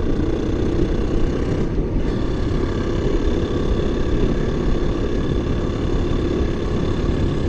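KTM EXC-F 350's single-cylinder four-stroke engine running at a steady pace while the bike is ridden.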